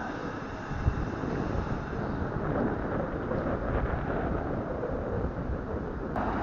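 Wind buffeting the microphone: a rough low rumble that picks up about a second in, with a short click near the end.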